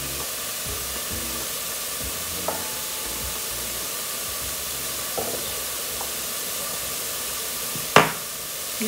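Ground beef and chopped vegetables sizzling steadily in a stainless steel pot, with a few faint ticks and one sharp click near the end.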